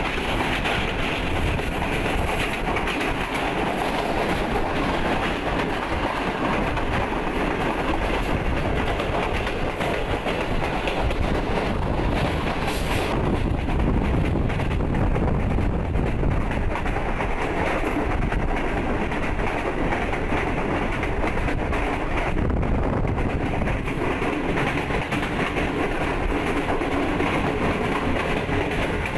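CRRC Tangshan passenger coach running at speed on the Millat Express: a steady rumble and clatter of the wheels on the track, heard through an open door.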